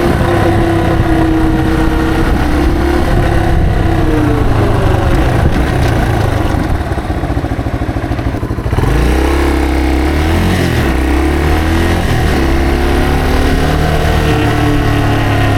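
Yamaha TW225's single-cylinder engine, heard from the rider's seat. It eases off with falling pitch and goes quieter for a couple of seconds around the middle. About nine seconds in it pulls away, rising in pitch, with a brief dip at a gear change before climbing again.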